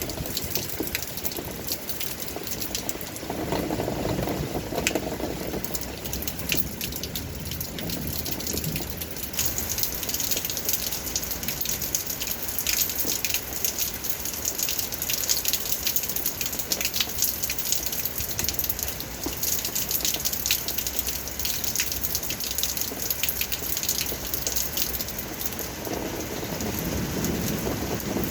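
Rain falling steadily, a dense patter of individual drops striking a surface, with a lower rush of water swelling briefly twice.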